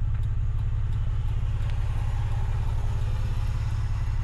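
Honda Accord's exhaust running with a steady low drone, heard from inside the car.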